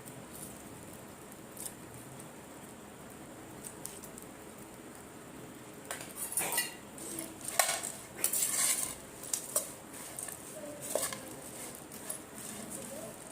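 Spoon and dishware clinking and scraping in a burst of knocks from about six to eleven seconds in, with a few lighter taps near the end, as the snack mix is served and stirred.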